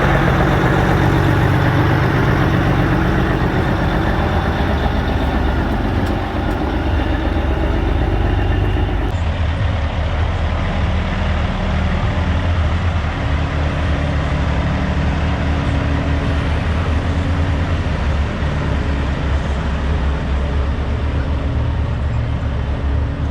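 Semi-truck diesel engines running at low speed. The sound changes abruptly about nine seconds in, from one truck's engine to another's.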